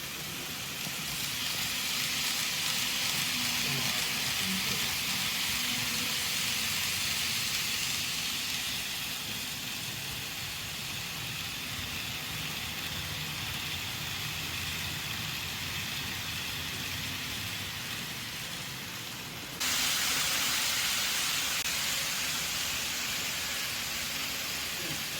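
N-gauge model train running on the layout track: a steady hiss of small wheels and motor over the rails, with a low rumble beneath. It swells over the first couple of seconds and jumps suddenly louder near the end.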